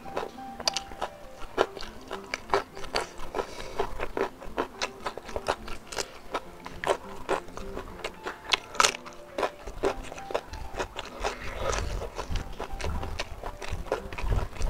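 Close-miked eating: wet chewing of smoked beef and rice with raw green vegetables, many sharp crunches and mouth clicks at a quick, irregular pace. Faint music plays underneath.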